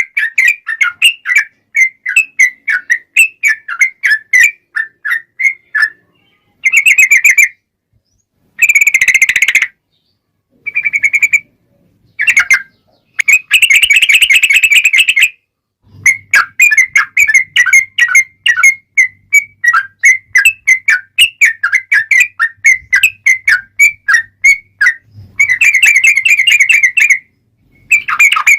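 Sooty-headed bulbul (trucukan) singing loudly: quick runs of short chirped notes broken by several longer rapid trills (the 'ropel') and a few brief pauses.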